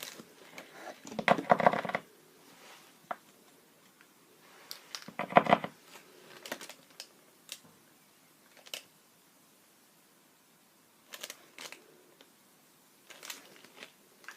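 A paint marker being shaken, its mixing ball rattling in two short bursts of rapid clicks, about a second in and again around five seconds in. Scattered light taps and clicks of the marker and art materials being handled follow.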